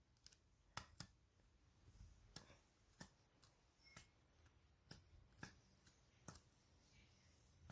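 Near silence with faint, irregularly spaced clicks and taps, like small plastic parts of a battery-powered toy engine being handled.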